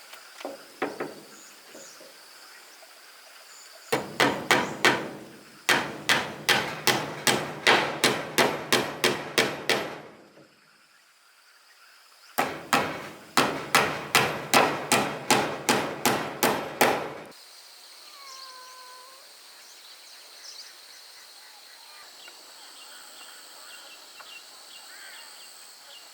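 Hammer blows on wood in two quick runs of about three strikes a second, with a pause between them. Insects buzz steadily with a high, even tone in the background.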